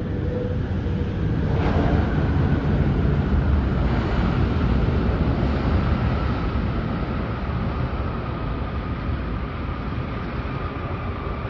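Jet airliner landing: a steady, loud rumble of the jet engines with a faint whine that slowly falls in pitch as it passes.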